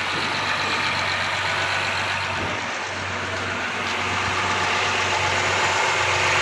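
2014 Honda Accord's 3.5-litre V6 idling steadily with no knocking, now that the worn timing belt tensioner has been replaced with a new one.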